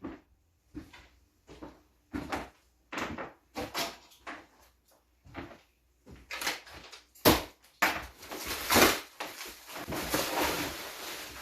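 Wooden beehive box parts being handled and knocked together during assembly: a string of irregular wooden knocks and clunks, one louder knock about seven seconds in, then scraping and rustling of wood over the last few seconds.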